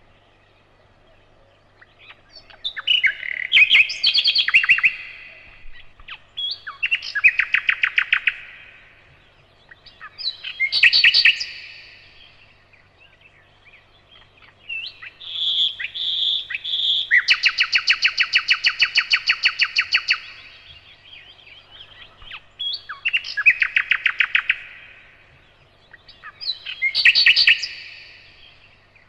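Nightingale singing in separate phrases a few seconds apart, each a fast run of repeated notes. The longest phrase, in the middle, opens with three separate notes before a long rapid trill.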